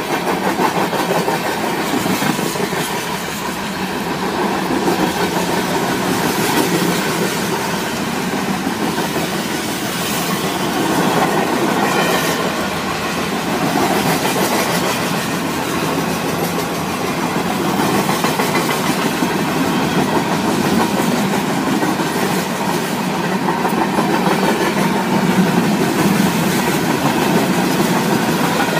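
A train's cars rolling steadily past, steel wheels running and clattering over the rail with faint ticks, loud and unbroken.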